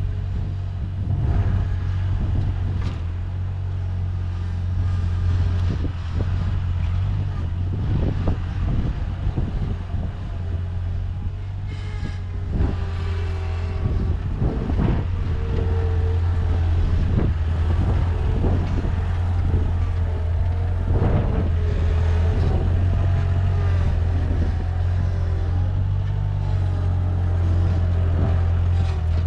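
Bobcat skid-steer loader engine running steadily under load while moving and levelling dirt, with scattered clanks and knocks throughout.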